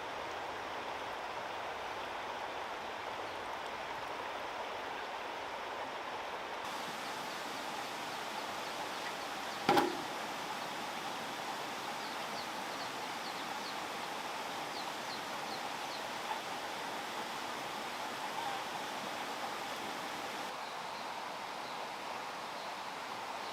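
Steady outdoor background noise with one sharp knock a little under halfway through, and a few faint high chirps after it.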